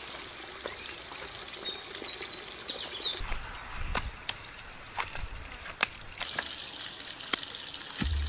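A small bird chirping a quick run of high notes about two seconds in, over a steady outdoor hiss like running water. Scattered sharp clicks and knocks follow, from hand tools working clay soil and stones.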